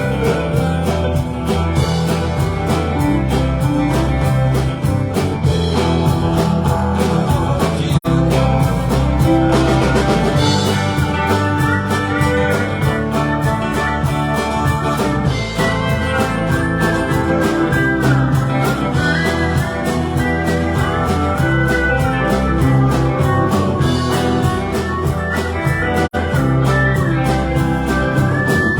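Live country-rock band playing an instrumental break with no singing: a lead guitar line with bent notes over bass and a steady drum beat.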